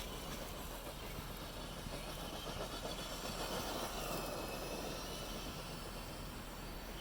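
Electric radio-controlled monster truck driving on dirt: faint motor whine and tyre noise that swell and fade around the middle.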